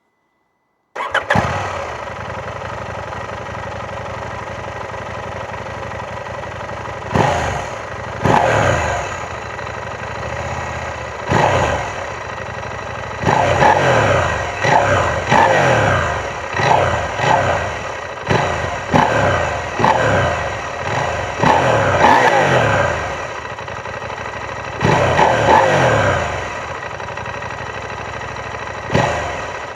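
KTM 790 Adventure S parallel-twin engine on its stock exhaust, starting about a second in and settling into a steady idle. It is then revved in short throttle blips: a few spaced ones, a quick run of them through the middle, one longer rev, and a last blip near the end, dropping back to idle each time.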